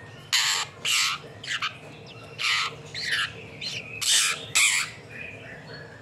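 Small bird held in the hand giving harsh distress squawks, about eight short calls in quick succession, as it is restrained and its eye is swabbed.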